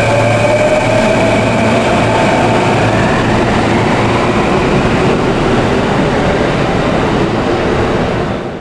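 Electric commuter train on the Hanshin Namba Line running through the station, its motor whine rising slowly in pitch over the first few seconds as it gathers speed. The rumble of wheels on rail carries on steadily and drops away right at the end.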